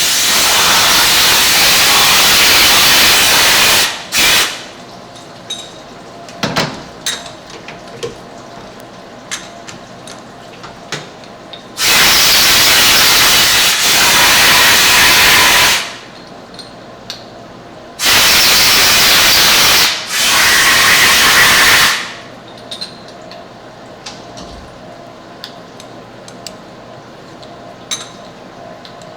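Compressed air blasting in loud bursts of a few seconds each, four long ones and one short, clearing chips from freshly machined 6061 aluminium parts. Light clicks and knocks of metal being handled sound in the gaps between blasts.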